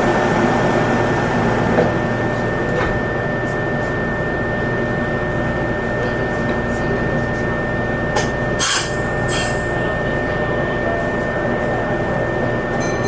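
Meitetsu limited express train heard from inside the carriage: steady running noise with a thin steady high whine. A few sharp clicks or squeaks come about 3 s in and again about 8 to 9 s in.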